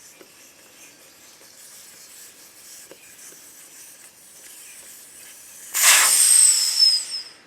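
Air rushing out of a lawn mower tire's valve stem as the valve core is removed: a loud hiss with a high whistle, starting near the end and dying away after about a second and a half. Before it, only faint small clicks of the valve core tool.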